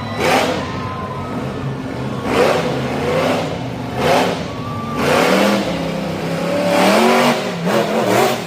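Monster truck engine revving hard again and again, its pitch climbing and falling with each blip of the throttle, several revs in quick succession.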